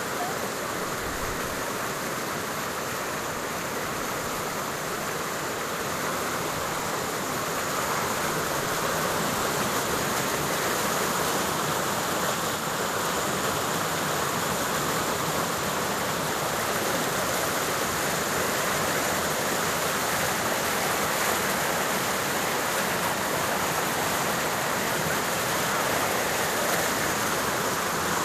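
Steady rush of flowing water, a little louder from about eight seconds in.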